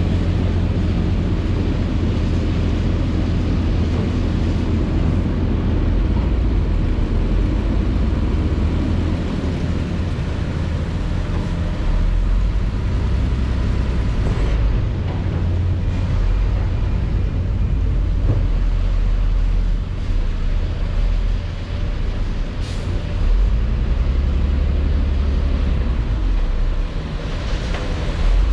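Heavy diesel construction machinery running steadily with a deep, low engine rumble that swells and eases slightly a few times.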